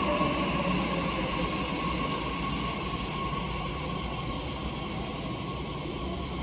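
E131 series electric train slowing to a stop at a platform: its motor whine falls in pitch and dies away in the first second and a half, leaving a steady faint tone and rumble that gradually quieten.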